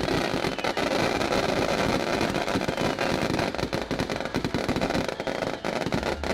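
Fireworks display: a dense, continuous crackle of many firecracker and shell bursts going off together. Faint falling whistles sound about halfway through.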